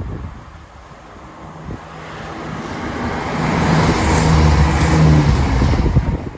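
Diesel train approaching and passing at speed: a rushing noise of wheels and air with a steady low engine hum, building to its loudest about four to five seconds in, then stopping abruptly near the end.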